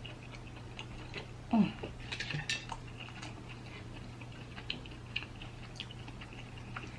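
Light, scattered clicks and taps of cutlery against a dish while eating, busiest about two seconds in, with a brief falling sound about a second and a half in and a low steady hum underneath.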